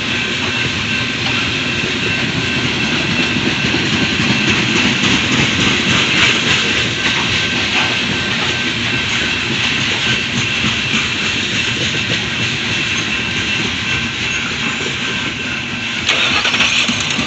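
Loaded coal train rolling past: a steady rumble of wheels on rail with a faint, steady high ringing, swelling briefly near the end.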